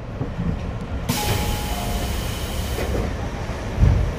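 Tobu 10030-series electric train standing at a station stop: a burst of compressed air hisses for about two seconds, then a short low thump near the end.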